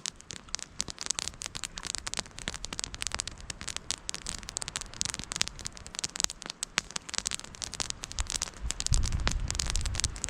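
Wood campfire crackling and popping with many irregular sharp snaps, with a low rumble near the end.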